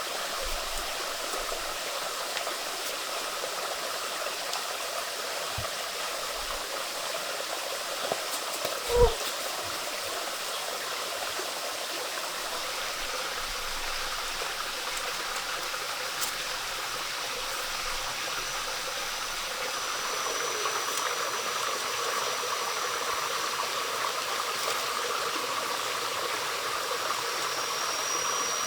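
Steady rush of a flowing stream, with one sharp knock about a third of the way in. A thin, high, steady tone joins about two-thirds of the way through.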